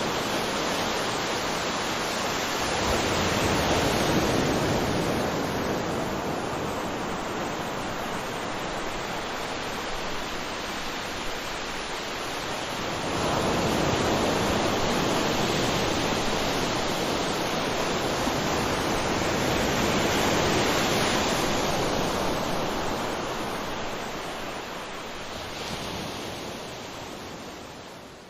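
Waterfall: a steady rush of falling water that swells louder twice and eases back, then fades out near the end.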